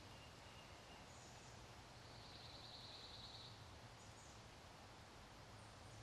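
Near silence: faint outdoor hiss with a few soft, high bird chirps and a brief trill about two to three seconds in.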